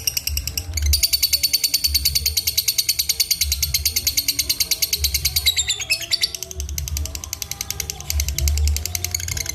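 Lovebird giving a long, fast ratcheting chatter of about ten notes a second, breaking off briefly about six seconds in and then carrying on, over a low thudding beat of background music.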